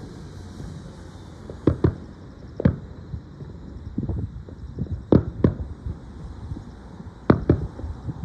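Aerial fireworks shells bursting: about eight sharp bangs at irregular intervals, several coming in quick pairs, over a low rumble.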